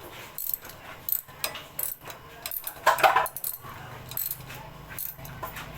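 Irregular metallic clicks and clinks of hand tools and motorcycle engine parts being handled, with a louder clatter about three seconds in.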